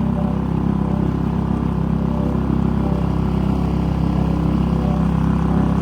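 Suzuki 2.5 hp four-stroke outboard motor running steadily, pushing a small flat-bottomed boat along.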